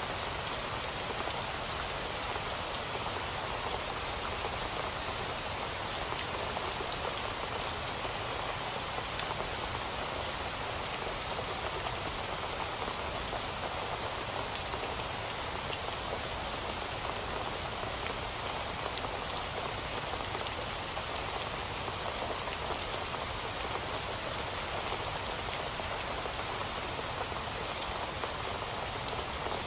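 Steady rain falling, a dense even hiss with fine drop patter, unchanging throughout.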